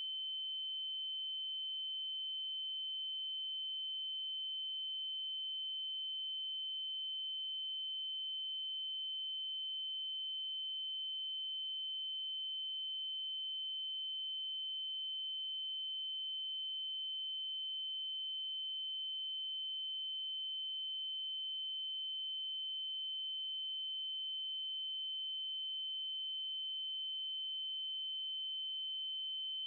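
Synthesized 3072 Hz triangle-wave tone, a steady high-pitched pure tone held without change.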